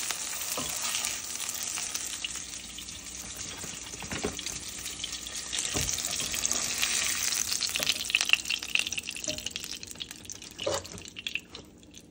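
Tuna steaks sizzling in oil in a skillet, with a few light knocks of pan and spatula. The sizzle dies away over the last few seconds as the pan comes off the burner.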